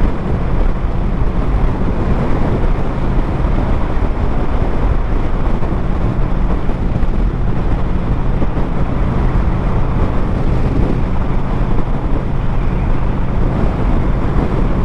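Motorcycle engine running steadily while riding, under heavy wind rush on the microphone.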